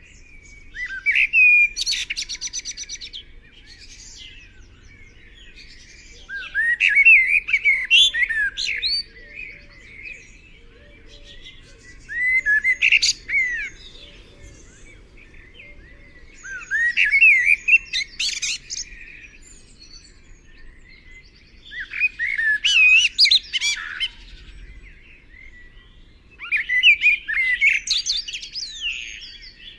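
A bird singing a series of six song phrases. Each phrase is about two seconds of quick, varied chirps and trills, with pauses of a few seconds between them.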